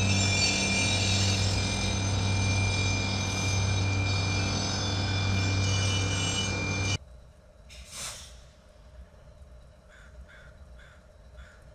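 Loram rail maintenance train passing, its machinery running loud and steady with a low hum and high whining tones, until the sound stops abruptly about seven seconds in. Then a soft whoosh, and a crow cawing four short times near the end.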